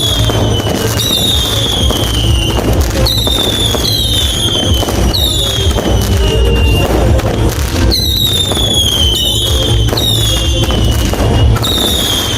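Whistling fireworks going off one after another: about ten shrill whistles, each starting with a crack and sliding down in pitch over about a second, some overlapping, over a steady low rumble.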